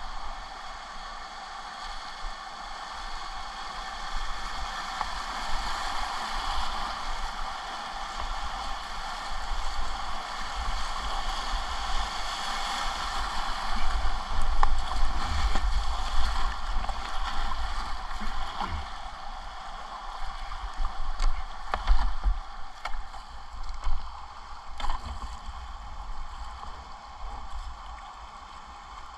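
River whitewater rushing and splashing around a kayak, with low rumbling buffets on the microphone that swell through the middle and a few sharp knocks past the middle.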